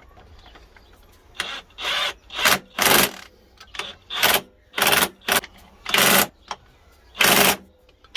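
Power tool run in about nine short bursts, snugging up the flywheel bolts on a VW 1.9 TDI engine.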